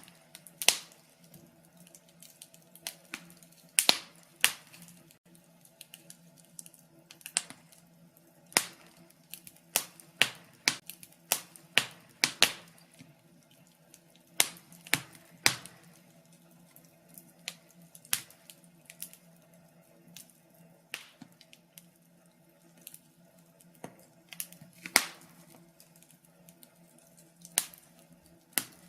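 Wood fire crackling in a fireplace: irregular sharp pops and snaps, sometimes a few close together, over a faint steady low hum.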